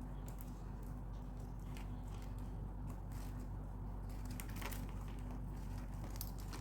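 Plastic craft wire crackling and clicking faintly in irregular bursts as its ends are pushed and pulled through the woven knots of a basket, over a steady low hum.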